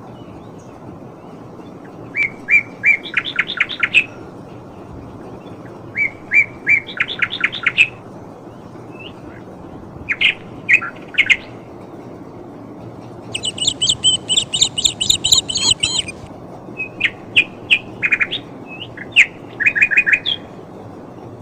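Small birds singing in short runs of rapid, repeated chirps, each about two seconds long with pauses between. A longer, higher twittering run comes midway. A steady low background noise runs underneath.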